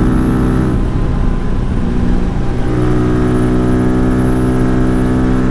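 Honda Grom's 125 cc single-cylinder engine held flat out at a steady high pitch while riding, the note wavering briefly about a second in before settling again, with wind buffeting the microphone.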